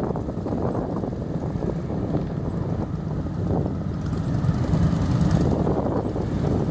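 Several motorcycle engines running at once, with one growing louder for about a second just past the middle.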